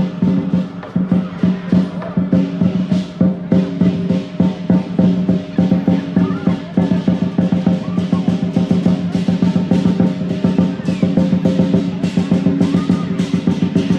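Lion dance percussion: a drum and clashing cymbals beating a fast, continuous rhythm, with a steady ringing tone underneath.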